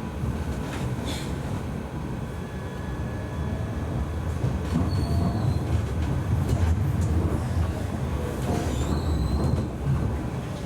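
Siemens Avenio low-floor tram running along its track, heard from on board: a steady low rumble of wheels on rail, with brief thin high-pitched wheel squeals about halfway through and again near the end.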